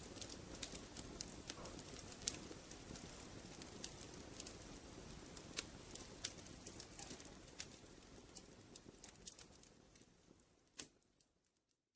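Fireplace fire crackling: scattered sharp pops and snaps over a low steady hiss. It fades out about ten seconds in, with one last pop, and ends in silence.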